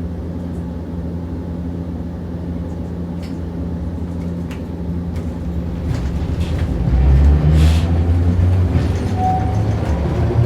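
Hiroshima Electric Railway 650-type tram car 652 running, heard from inside the car: a steady low hum of motors and wheels on rail, growing louder about seven seconds in, with a few short knocks.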